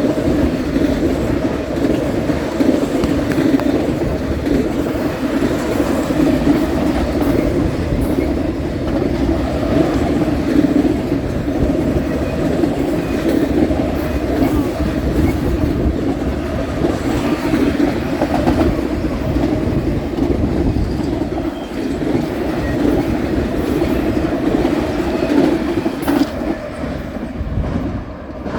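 BNSF freight train rolling past at close range: a steady loud rumble of steel wheels on the rails with some clatter, easing off slightly near the end.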